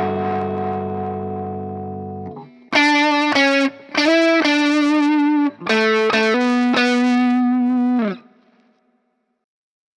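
High-gain distorted electric guitar. A held chord rings and fades out over the first two seconds, then a run of held notes and chords with short breaks is played, cut off about eight seconds in and followed by near silence.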